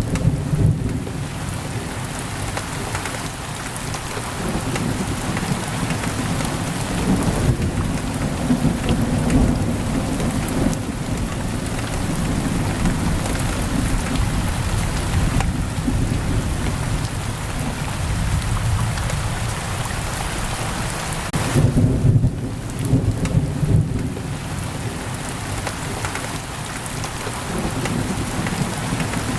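Heavy rain pouring steadily against a window, with low rolling thunder swelling up twice, about eight seconds in and again near the twenty-two-second mark.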